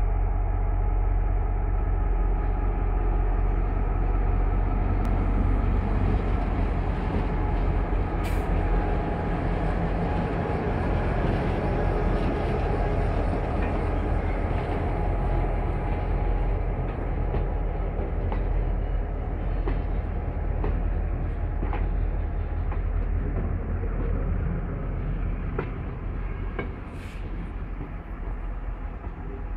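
GM G26 diesel-electric locomotive's engine running steadily as it hauls a works train of flat wagons slowly past, with the rumble of wagon wheels rolling on the track. A couple of sharp metallic clacks come from the wheels, one about eight seconds in and one near the end. The sound eases off slightly as the locomotive draws away.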